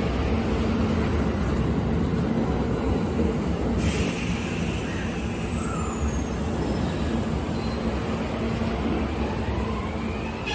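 Kintetsu limited-express train standing at an underground platform, with a steady low rumble; about four seconds in comes a sudden hiss of compressed air with a high whistle that falls in pitch, typical of air-brake release. A rising whine begins near the end.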